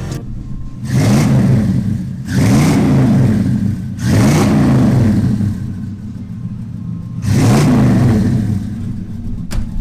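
GMC Sierra pickup's V8 exhaust through a single-in, dual-out Flowmaster muffler and dual tailpipes, idling and revved four times, each rev rising and falling in pitch. A sharp click near the end.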